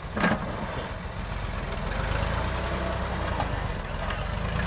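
New Holland Ghazi tractor's diesel engine running steadily at a low idle-like pace, picking up slightly in level after a second or two. A single short sharp sound comes just after the start.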